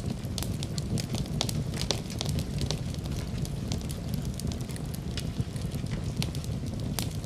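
Wood fire in a fireplace crackling: frequent irregular sharp pops and snaps over a steady low rumble of burning flames.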